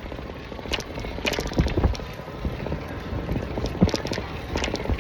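City bike rattling and clicking as it rolls over pavement, with irregular sharp knocks over a steady low rumble of road noise.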